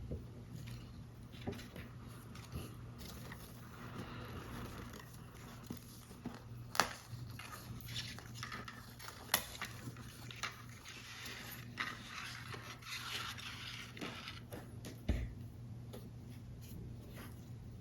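Paper crinkling and scraping as a paper model is handled and assembled, with scattered sharp ticks and taps; the loudest taps come about a third of the way in, about halfway, and near the end. A steady low hum runs underneath.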